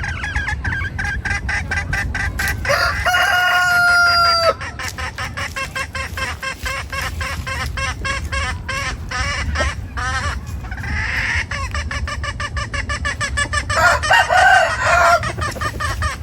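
A flock of chickens clucking rapidly and continuously. A rooster crows about three seconds in, a held call that cuts off sharply, and another loud call rises out of the clucking near the end.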